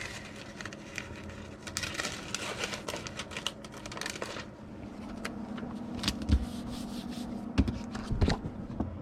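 Paper and plastic packing materials rustling and crinkling as they are handled, dense for the first few seconds, then a few separate light knocks.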